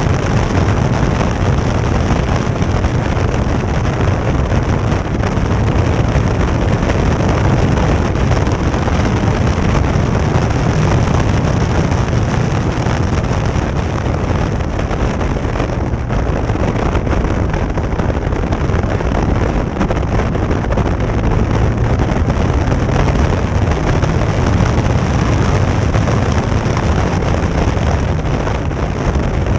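Caterham Seven at speed heard from its open cockpit: the engine running under load, largely buried in steady, loud wind buffeting on the microphone.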